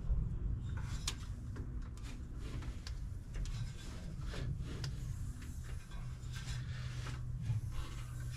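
Faint rubbing, scraping and light clicks of hands turning a small-block V8 over by its fan to bring the distributor rotor round, over a steady low hum.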